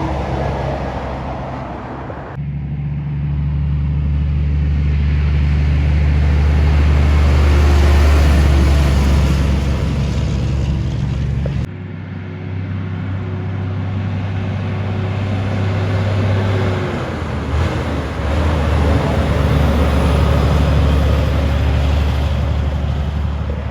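Heavy diesel truck engines driving past, a loud steady low drone. The sound changes abruptly twice, about two and twelve seconds in, as the footage cuts from one truck to another. There is a brief dip in engine pitch about seventeen seconds in.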